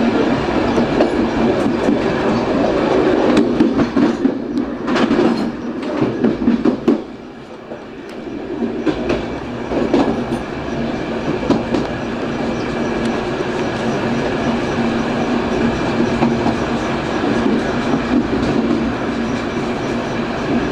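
E14000 electric multiple unit running along the line, heard from inside the cab: continuous rolling noise with a steady hum and wheels clacking over rail joints, with a burst of sharp clacks between about four and seven seconds in.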